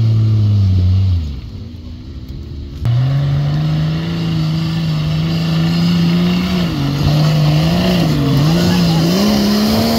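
Off-road 4x4 engine working hard under load: its revs fall away about a second in, then, after an abrupt switch, a louder engine is held at high revs, wavering up and down several times before climbing again near the end.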